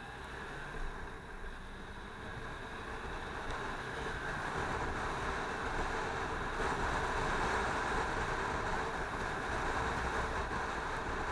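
Yamaha FZ6 motorcycle under way, heard as a steady rush of wind and engine noise that grows louder over the first half and then holds.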